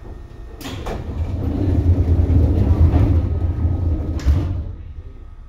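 Running noise of a Seibu 2000 series electric train heard from on board: a heavy low rumble that swells over about two seconds and fades again, with a sharp knock near the start and another near the end.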